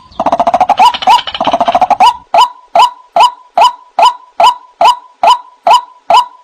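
White-breasted waterhen calling: a fast, dense chattering run for about the first two seconds, then a steady series of short repeated calls, a little over two a second.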